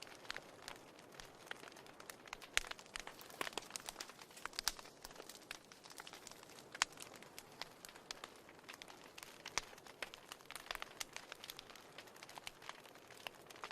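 Fire burning in a fireplace, crackling and popping irregularly over a soft steady hiss, with a few louder pops now and then.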